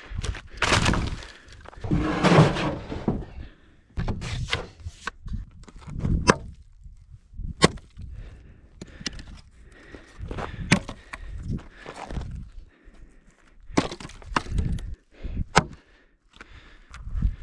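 Irregular series of knocks, cracks and clatters, like objects being handled or broken, with a longer rough bout about two seconds in and a few sharp snaps later on.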